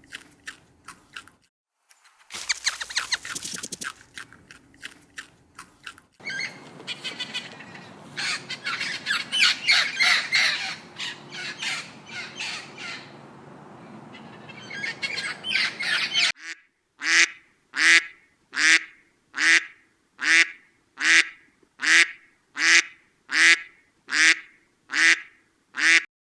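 Animal calls in three parts. First comes rapid clicking chatter, then a dense run of high-pitched calls. From about sixteen seconds in, a duck quacks about thirteen times at an even pace.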